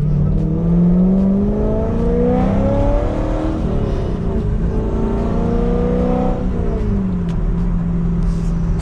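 C5 Corvette Z06's LS6 V8 pulling under acceleration: the engine pitch climbs, drops at an upshift about three and a half seconds in, climbs again, then eases off and holds a steady cruise near the end.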